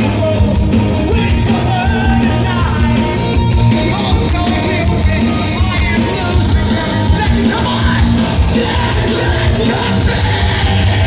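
Live heavy rock band playing loudly, with drums and yelled vocals.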